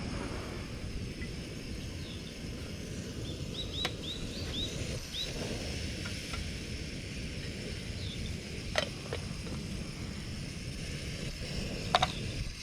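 Outdoor ambience: a steady low rumble with a bird giving a quick run of short, high chirps about four seconds in, and a few sharp clicks later on.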